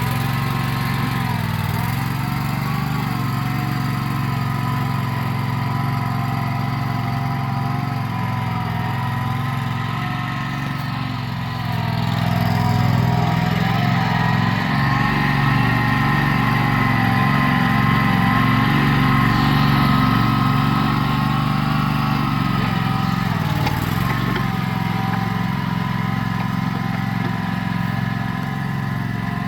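Bobcat 310 mini skid steer running on its replacement Predator 670 V-twin engine. The engine grows louder about twelve seconds in and settles back down near the end.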